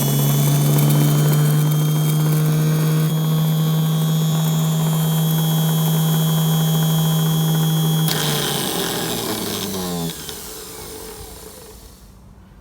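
A small electric motor running free with a steady whine. A click about eight seconds in, then it spins down and stops about two seconds later.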